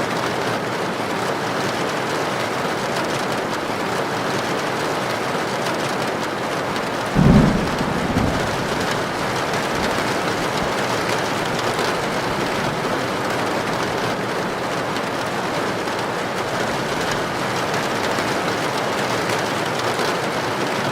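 Heavy rain drumming steadily on a tin roof. About seven seconds in, a sudden low clap of thunder, with a smaller rumble a second later.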